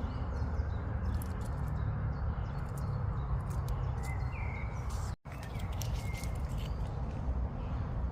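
A few short bird chirps over a steady low rumble, with scattered faint clicks. The sound cuts out for a moment about five seconds in.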